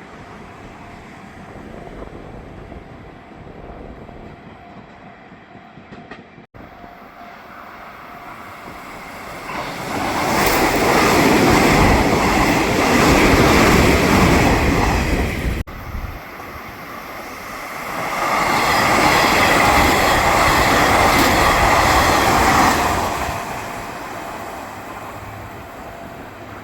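Nishitetsu electric commuter train passing along the track, with a rush of wheel-on-rail and running noise that swells to loud about ten seconds in and fades. A second passage swells about eighteen seconds in and dies away near the end.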